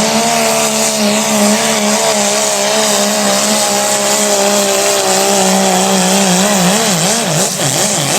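Diesel pickup engine running at high revs under full load while pulling a sled, a loud steady drone. From about two-thirds of the way in, the engine speed swings up and down several times.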